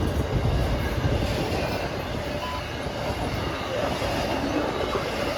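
CSX intermodal freight train rolling past, a steady noise of wheels on rail.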